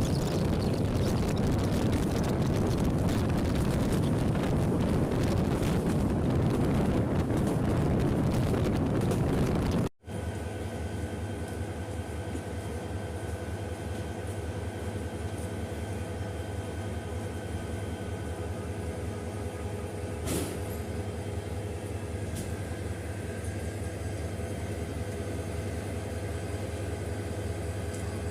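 Train running, a loud steady rumble and rattle. About ten seconds in it cuts off abruptly to a quieter, steady diesel engine hum with a single click near the twenty-second mark.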